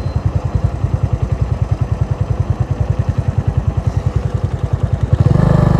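Motorcycle engine idling with an even, rapid low beat, then revving up and getting louder about five seconds in.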